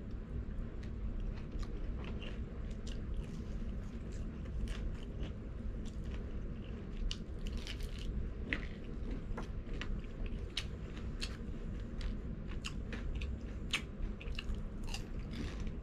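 Close-up chewing and biting into crispy fried chicken, with many sharp crunches and crackles of the breading, irregular and quick.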